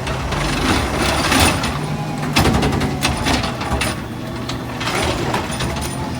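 Rear-loader garbage truck's diesel engine running steadily, with repeated metallic clanks and rattles.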